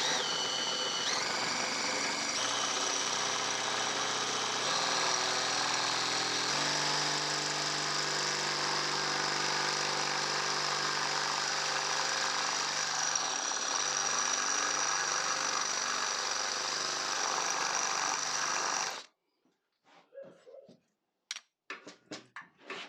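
Electric drill running steadily under load, drilling out the rivets that hold the foot plate on a motorcycle foot rest. Its pitch steps a few times, and it cuts off suddenly about nineteen seconds in, followed by a few light clicks.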